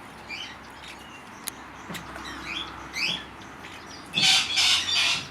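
Aviary birds calling: several short rising chirps, then loud, harsh screeching calls about four seconds in.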